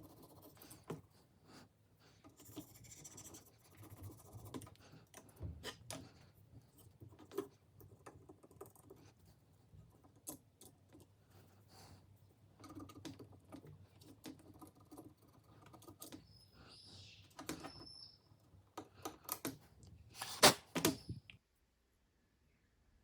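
Scattered small clicks, taps and rustles of hands handling small parts and tools, with a cluster of louder knocks near the end before the sound cuts off suddenly.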